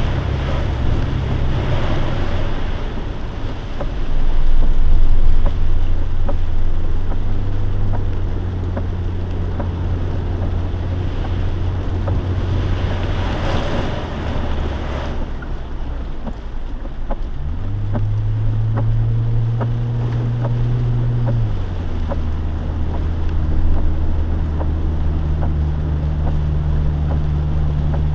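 Lifted Jeep's engine running with a steady low drone as it ploughs through deep flood water on the road, water rushing and spraying under the wheels in two heavier surges. The engine picks up pitch for a few seconds more than halfway through, then settles back.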